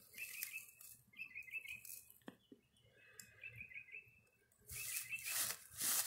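A songbird singing short warbled phrases over and over, about one phrase a second or so. A burst of rustling noise comes near the end.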